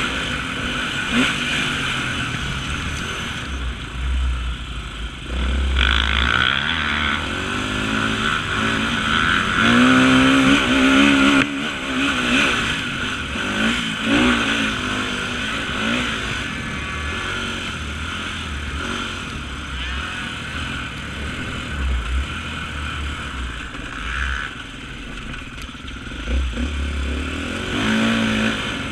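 Off-road motorcycle engine racing over rough ground, the revs repeatedly rising and falling as the throttle opens and closes, with rumbling and rattle mixed in.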